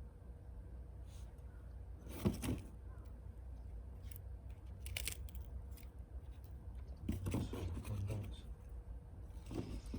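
Scattered handling noises of objects being moved and set down: a sharp clink about two seconds in, a quick tick about halfway through, and a rougher stretch of scraping and crunching near the end.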